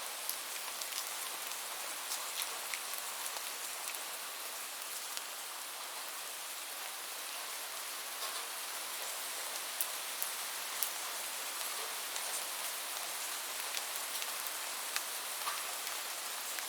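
Steady rain falling, an even hiss with many scattered louder drop ticks.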